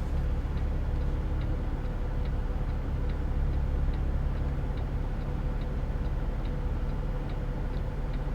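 Semi truck's diesel engine running steadily, heard from the cab, with a light tick repeating about twice a second.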